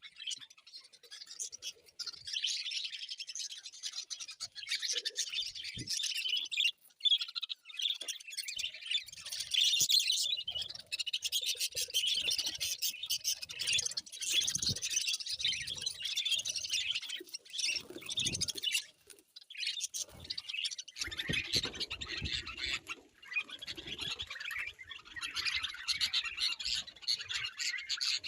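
Birds chirping and squawking in a busy, overlapping chatter that never lets up, with a few soft low thumps in the second half.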